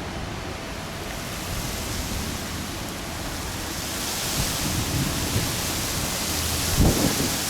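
Jet airliner on approach, its engine noise a broad hiss that grows steadily louder and brighter as it nears. Strong wind buffets the microphone with low rumbles near the end.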